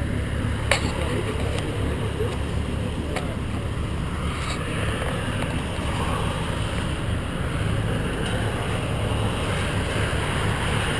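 Car engine idling steadily, with a couple of sharp clicks in the first few seconds.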